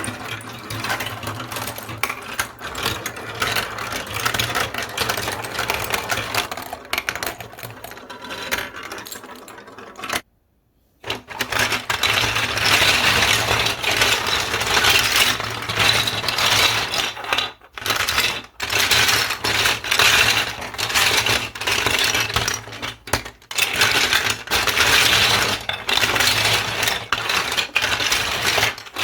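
Many marbles rolling down a building-block marble run, a steady rolling rumble under dense clicking and rattling as they strike the track pieces. It breaks off briefly about ten seconds in, then resumes louder.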